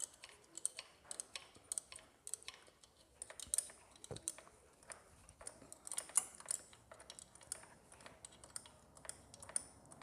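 Ratchet wrench clicking in quick irregular runs as the motorcycle's cylinder head nuts are tightened down.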